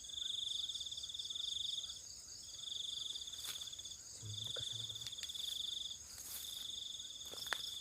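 Night insects: a cricket trilling in repeated high, pulsing phrases about one to two seconds long with short breaks, over a steady higher-pitched chorus of other insects. A few faint clicks and a brief low sound come in about halfway through.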